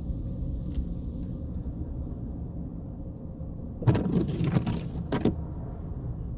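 Steady low rumble inside a running sedan's cabin, with a few sharp knocks or clatters about four and five seconds in.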